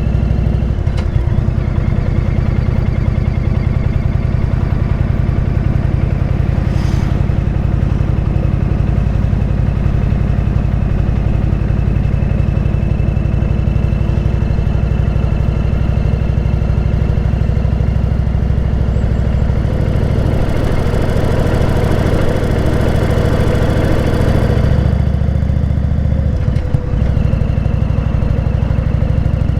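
Motorcycle engine running steadily while riding. Wind and road noise swell for a few seconds in the second half, and there is a brief dip in the engine note near the end.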